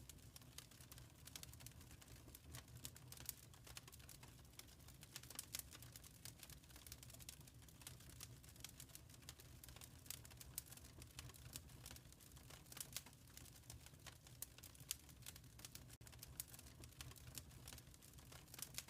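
Wood fire crackling in a fireplace: quiet, dense, irregular little pops and snaps over a low steady rumble.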